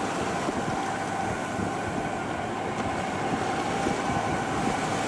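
Steady rush of wind and water around a sailing yacht underway, with a faint steady hum over it.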